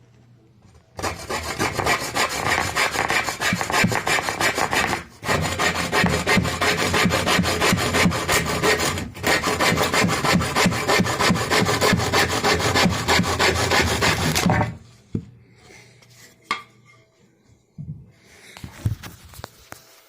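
Wood being cut by hand with a hacksaw blade converted into a wood saw, its teeth ground into notches and set alternately, in quick back-and-forth strokes for about fourteen seconds, with two short pauses. A few faint knocks follow once the sawing stops.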